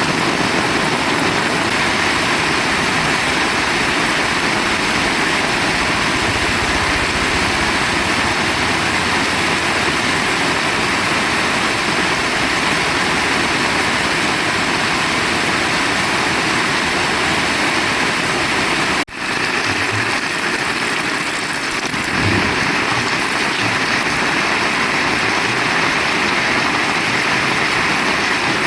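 Heavy rain falling, a dense steady hiss, with a brief sudden drop-out about two-thirds of the way through.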